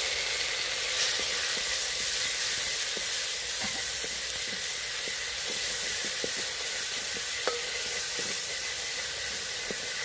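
Tadka frying in a pan of hot oil: chopped tomato, onion, garlic and green chilli sizzling steadily. Scattered light clicks come from a spoon stirring.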